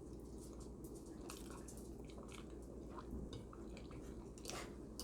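A person quietly chewing soft baked manicotti pasta: faint wet mouth sounds with scattered small clicks.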